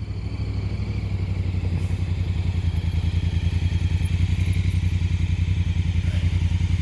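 Honda Africa Twin's parallel-twin engine running at low speed with an even, regular pulse, growing steadily louder as the motorcycle comes closer.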